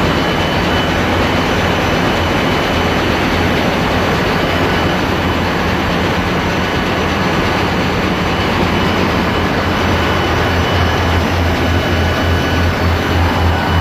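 Loud, steady machinery noise in a ship's engine room, with running diesel engines and auxiliaries. A strong low hum pulses in a regular beat near the end, and a faint steady high whine sits above the noise.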